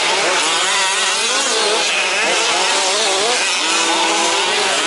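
Several 1/5-scale two-stroke petrol RC truck engines racing, revving up and falling off, their buzzing pitches rising and dipping over one another.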